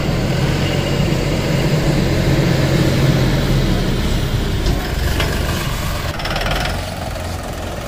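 Force Sanman 6000 tractor's three-cylinder diesel engine running steadily.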